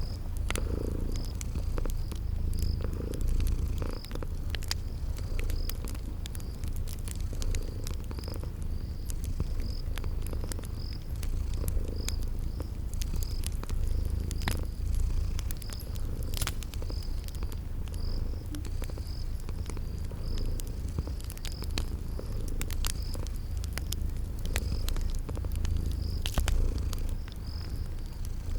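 Cat purring in a steady low rumble, layered with a wood fire's scattered crackles and pops and crickets chirping in a regular rhythm.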